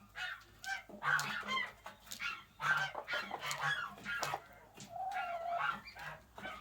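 Hens clucking and calling in a string of short calls, with one longer, drawn-out call about five seconds in.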